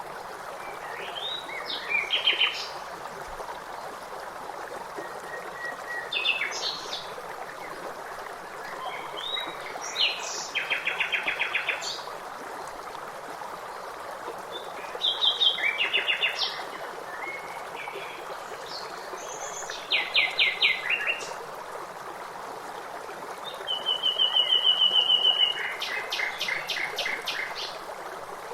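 Songbirds singing short phrases every few seconds, several of them rapid trills, over the steady rush of running water.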